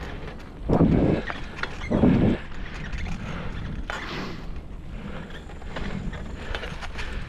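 Bicycle being ridden over a forest trail: a steady rumble of tyres with scattered rattling clicks, and two brief louder rushes of noise about one and two seconds in.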